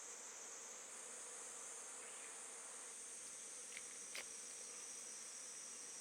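Faint, steady high-pitched insect chorus, with two small clicks about four seconds in.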